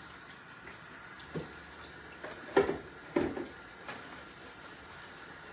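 Kitchen tap running steadily into a sink, with a few short clunks of bowls or utensils handled over it.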